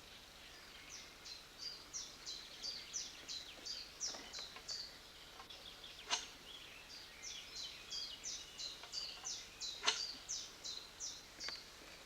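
A songbird singing a long run of short, high notes, each sliding downward, about three a second, with a brief pause midway. A few sharp clicks sound over it.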